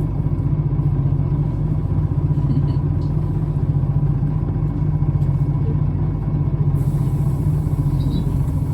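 Scania L94UB single-deck bus's diesel engine running steadily, a low even drone heard from inside the bus.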